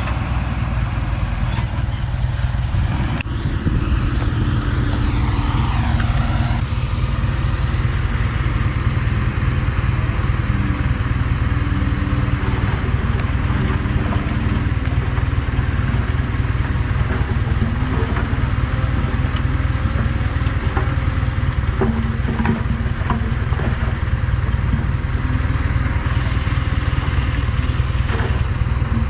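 Diesel engine of heavy earthmoving equipment running steadily under load, with a whine falling in pitch about four to six seconds in.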